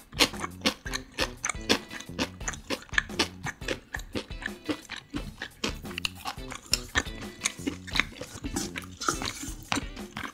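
Close-miked chewing and crunching of food, many quick crisp clicks in a row, over background music.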